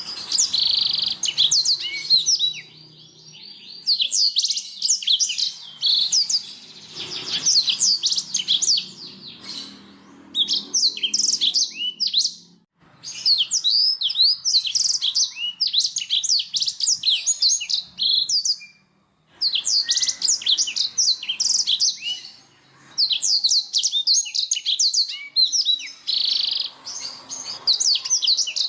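Domestic canary singing long, fast rolling trills of high, rapidly repeated notes, with a few brief pauses between song phrases.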